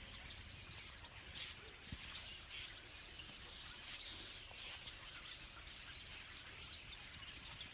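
A large flock of songbirds in birch trees chattering and chirping together, many high calls overlapping into a continuous chorus that grows busier a couple of seconds in; the flock is gathering before migration.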